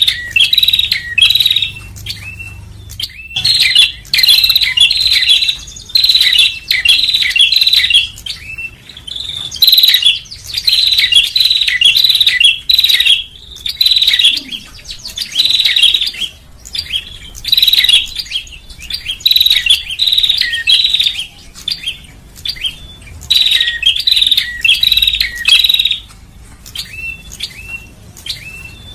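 Prinia (prenjak) song recorded as a bird-lure call: loud, rapid phrases of sharp chirps, each lasting a second or two, repeated with short pauses between them.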